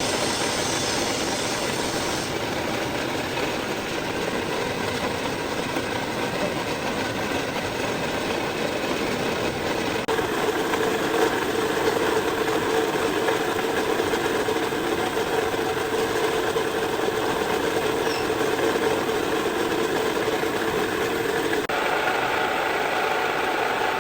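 Lathe running steadily while machining a metal pulley. A steady hum comes in about ten seconds in, and the sound changes abruptly twice.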